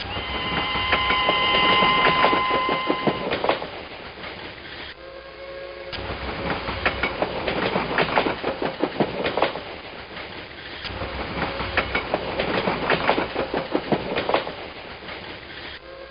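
RailKing O-gauge model train running on its track, the wheels clicking fast over the rail joints, swelling and fading three times as it passes close. A held whistle sounds for about the first three seconds.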